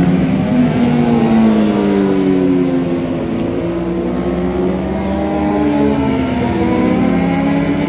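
Several racing motorcycles passing on the circuit, their engine notes overlapping. The pitch of each falls as it goes by, and a rising note comes near the end as a bike accelerates.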